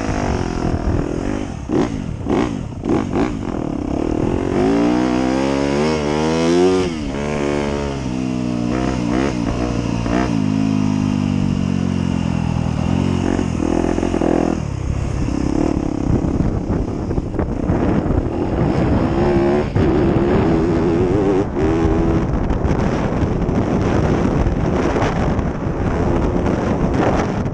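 Motocross dirt bike ridden fast through a section of jumps, the engine revving up and dropping off several times as the throttle is pinned and chopped. Near the middle it settles into a rougher, steadier running under a haze of wind noise.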